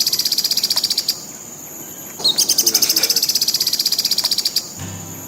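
Violet cuckoo calling: two rapid, high-pitched trills of evenly repeated notes, each about two seconds long, with a short gap between. Guitar music comes in near the end.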